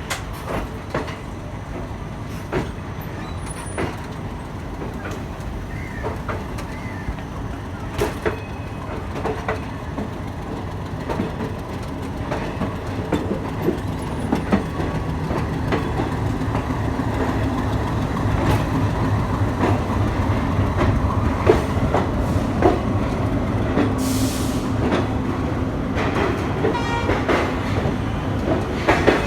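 Passenger express train running on the rails: a steady low rumble with the wheels clicking over rail joints, growing gradually louder.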